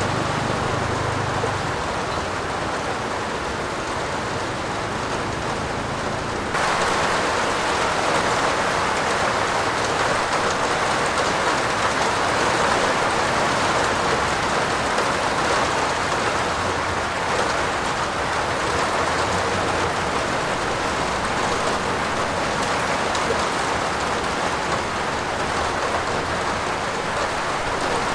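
Steady rain falling on a roof, an even hiss of many drops. About six and a half seconds in it turns suddenly louder and brighter.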